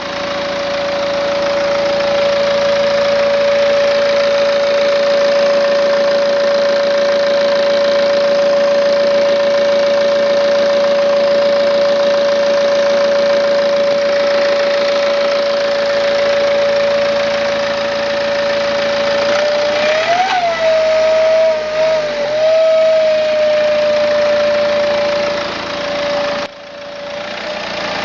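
BMW E90 320d's four-cylinder diesel engine running with a loud, steady whine over it. The whine rises in pitch and wavers briefly about two-thirds of the way through, then settles back to the same steady note. The owner suspects a failing turbocharger.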